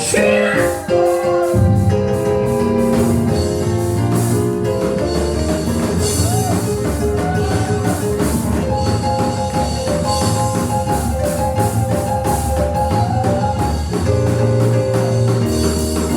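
Church band music with organ or keyboard chords, bass and drums playing a steady beat; the bass comes in about a second and a half in.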